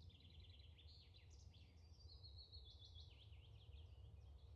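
Near silence: a faint low steady hum, with faint bird chirps and quick trills in the background.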